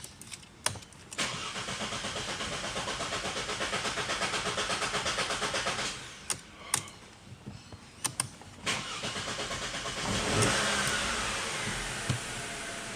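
Mercedes C-Class engine being started: the starter cranks with a rhythmic beat of about four a second for some five seconds without the engine catching, then after a few clicks it cranks again and the engine fires about ten seconds in, flares up and settles toward idle.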